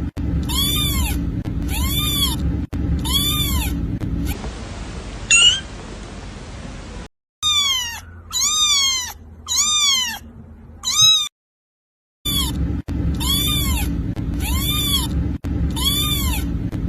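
Kitten meowing over and over, short high meows that rise and fall, about one a second in runs of four or five with short pauses between runs, over a steady low hum.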